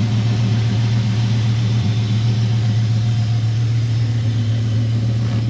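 Dodge Ram SRT-10's V10 engine, breathing through an aftermarket exhaust, idling steadily with a deep, even tone.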